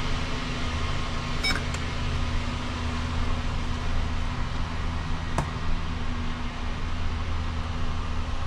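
Steady low hum of the ambulance's running machinery, with a short faint beep about one and a half seconds in and a single sharp click a few seconds later.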